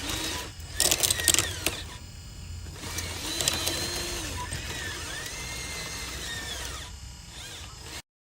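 Small electric motors of a radio-controlled construction model whining, rising and falling in pitch, with sharp clicks and clattering in the first couple of seconds; the sound cuts off abruptly near the end.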